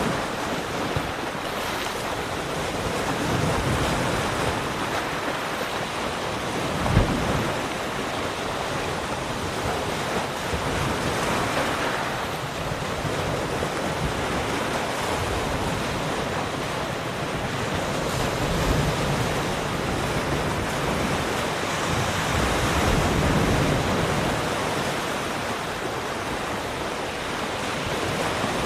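Ocean surf: waves breaking and washing ashore in a continuous rush that swells and eases every few seconds. A brief low thump stands out about seven seconds in.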